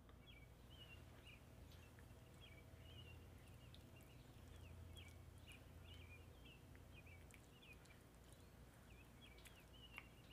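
Faint bird chirping: a steady run of short, quick chirps over a low hum, with one sharp click near the end.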